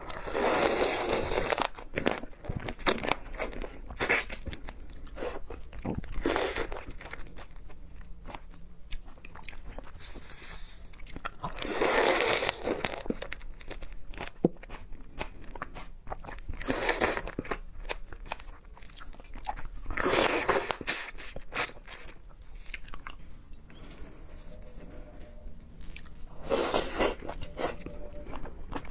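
A person biting and chewing spicy crab, shell crunching. About six loud crunches come several seconds apart, with softer chewing and small clicks between them.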